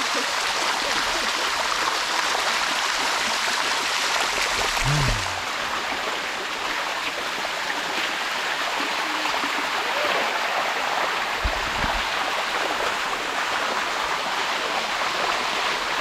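Water of a limestone cascade rushing and splashing over the rocks in a steady, dense rush. There is a low thud about five seconds in and another near twelve seconds.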